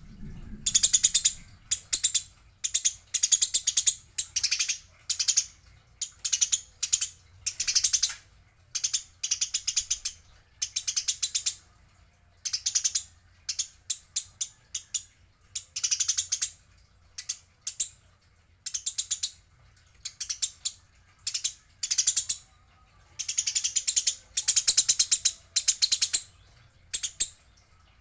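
Eurasian tree sparrows chattering: short bursts of rapid, ticking chirps follow one another with brief gaps, some bursts running together for a second or more.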